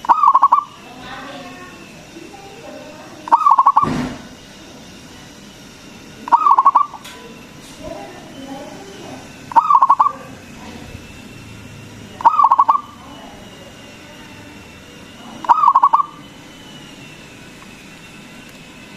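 Zebra dove (perkutut) cooing: six loud calls about every three seconds, each a short, rapidly pulsed coo, with softer cooing between them.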